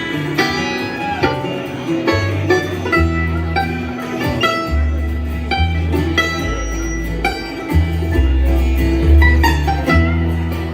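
Bluegrass band playing an instrumental passage: fast banjo and guitar picking over a bass line that steps from note to note.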